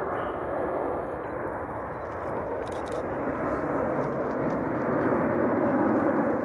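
Jet airliner engines making a steady roar, growing a little louder near the end.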